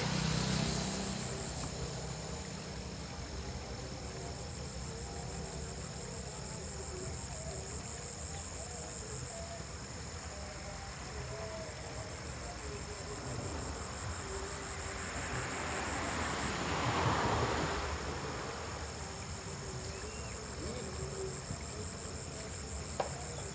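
A steady, high-pitched chirring of insects runs on without a break. About two-thirds of the way in, a broad rushing noise swells and fades over a few seconds.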